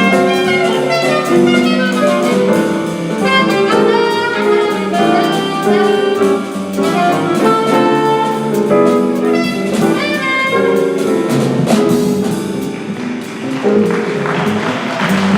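Live small-group jazz: an alto saxophone plays fast melodic runs over piano, upright bass and drums. Near the end a noisy wash spreads over the band.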